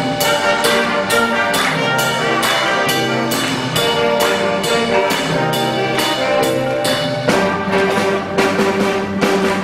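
School concert band playing, brass carrying the tune over a steady percussion beat of about three strokes a second.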